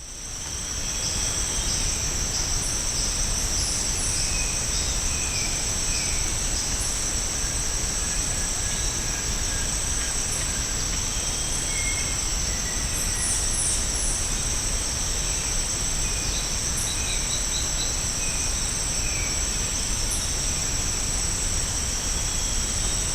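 Steady, high-pitched insect chorus of rainforest insects, with scattered short bird calls over it, including a quick run of four notes about two-thirds of the way in.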